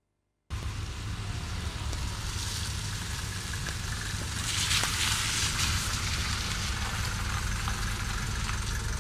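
Car engine running as a Mercedes-Benz W124 taxi drives up, a steady low rumble with road hiss. It comes in about half a second in and swells a little about halfway through.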